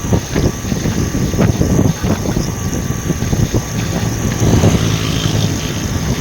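Truck running, a steady low engine drone with frequent irregular knocks and rattles.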